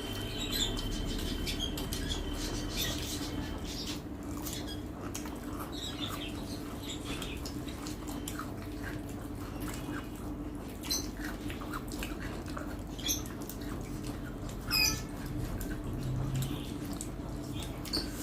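Close-up eating sounds: chewing, and small wet and crackly noises of food being handled and eaten, with scattered clicks of hands or utensils on plates and a sharper click about 15 s in. A steady low hum lies under it all.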